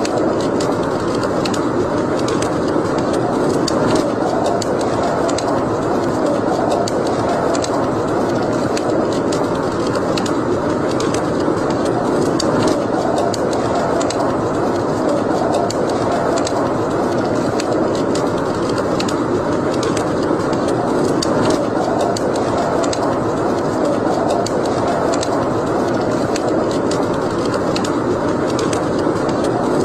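Wood fire burning in a fireplace: a steady rushing noise with frequent small, sharp crackles throughout.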